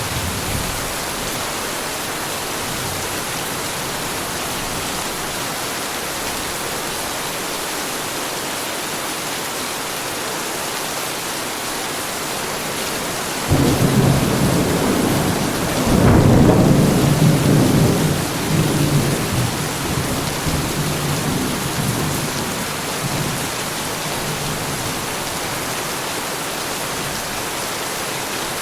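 Heavy rain falling in a steady hiss. About halfway through, thunder breaks in suddenly with a deep rumble that swells to its loudest a few seconds later, then rolls away over several seconds.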